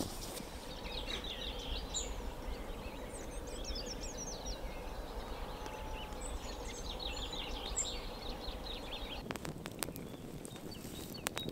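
A songbird singing: two spells of quick, high chirping notes over a low steady rumble. Near the end comes a run of sharp clicks.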